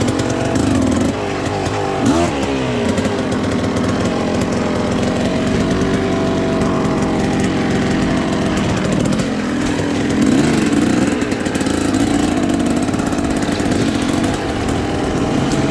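Dirt bike engine running and revving, its pitch rising and falling, with sharp revs about two seconds in and again around ten seconds in.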